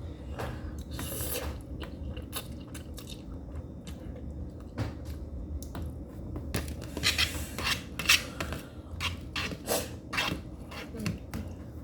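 A person eating spicy noodles: irregular clicks and scrapes of a utensil against the bowl, with chewing, busiest in the second half.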